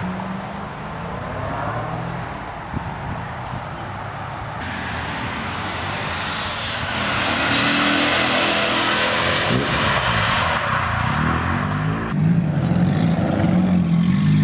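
Car engines running and revving, with a rough broad rush of noise that swells through the middle and is loudest around eight seconds in.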